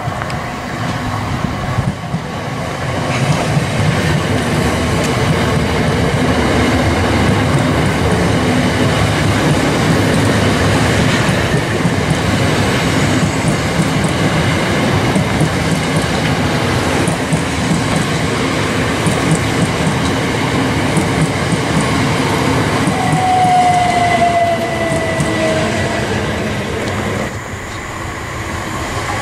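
Southern Class 377 Electrostar electric multiple unit running along the rails with a continuous loud rumble. About three-quarters of the way through, a short falling whine sounds over it. The sound drops noticeably near the end.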